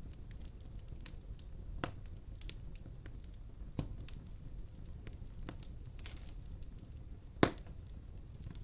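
Wood fire burning in a fireplace, crackling with scattered sharp pops over a low steady rumble; one loud pop near the end.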